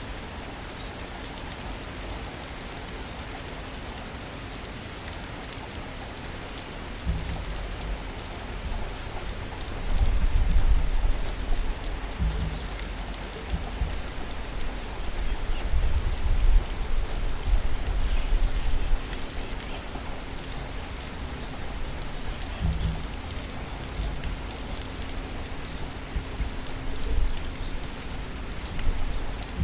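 Steady rain falling on city surfaces, an even hiss with scattered drop spatters. A deep low rumble swells a few seconds in and fades again past the middle, and a faint steady hum runs underneath.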